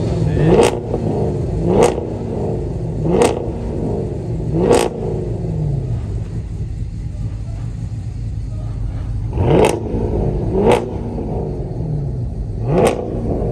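Dodge Charger's engine revved in short, sharp blips, each climbing quickly and dropping back to idle. There are four in quick succession, a pause of a few seconds, then three more.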